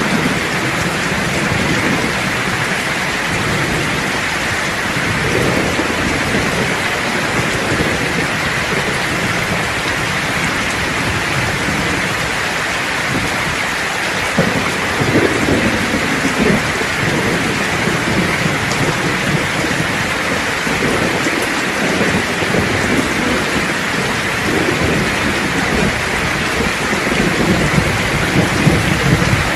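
Steady heavy rain hissing, with low rolling thunder rumbling several times, about five seconds in, around the middle, and building again near the end.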